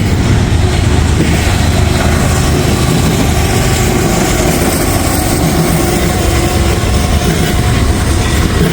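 A pair of mid-train distributed-power (DPU) diesel locomotives passing close by, working hard under load to push the train up a grade, with a steady low engine rumble.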